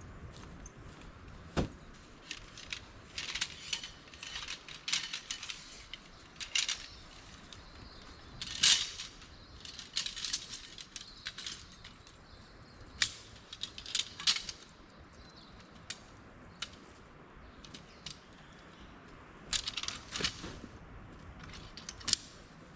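Irregular light clinks and clatter of small hard objects being handled, coming in clusters with short pauses between.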